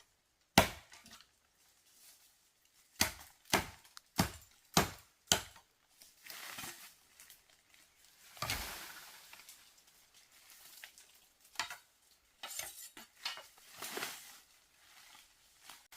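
Five quick, evenly spaced chopping strokes of a blade on a board, then the clatter and scrape of pots and utensils being handled and stirred.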